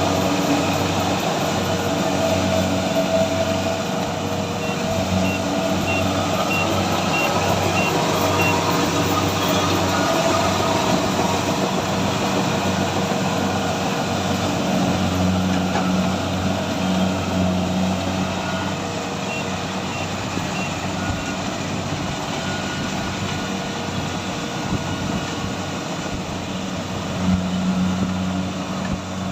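Kubota combine harvester's diesel engine running steadily under working load, with a low throbbing. Twice a short run of high, evenly spaced beeps sounds over it, like a reversing alarm.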